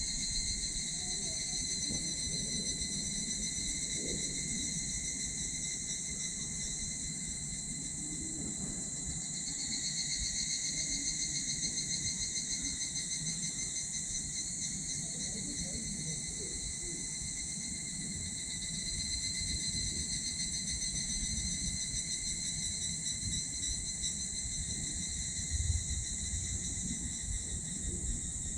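A steady chorus of insects trilling at several high pitches, swelling and easing a couple of times, over the low crackle of a small wood fire burning in a titanium wood stove, with one louder pop near the end.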